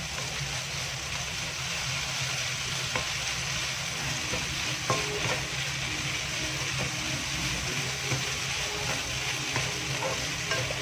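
Okra stir-fry sizzling in a non-stick pan, with a wooden spatula stirring it and tapping lightly against the pan a few times.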